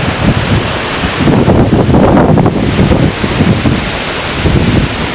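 A waterfall rushing steadily, with wind buffeting the microphone in gusts, strongest between about one and three seconds in.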